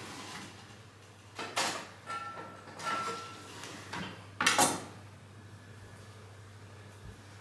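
A few short household scrapes and knocks over a steady low hum, the loudest about four and a half seconds in.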